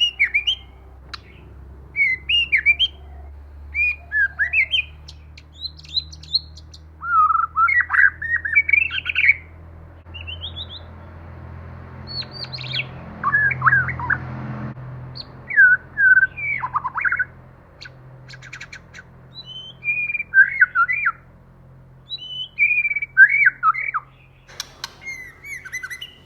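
White-rumped shama singing: a run of short, loud, whistled phrases with quick pitch sweeps, broken by brief pauses, over a faint steady low hum.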